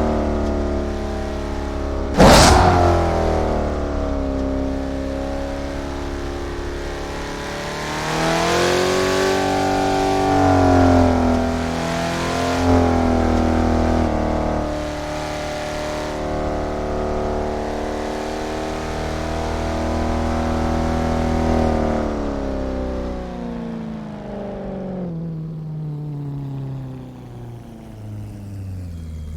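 Car engine heard from onboard, pulling and revving through the gears, with a sharp bang a couple of seconds in; in the last several seconds the revs fall steadily as the car slows down toward idle.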